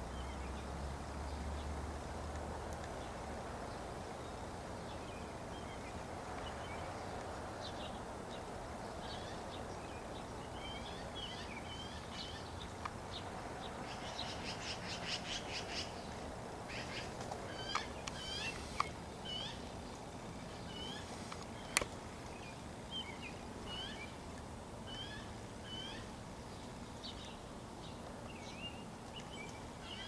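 Small birds chirping: a long run of short, quick chirps that starts a few seconds in, with a fast rattling series and a few sharp clicks near the middle.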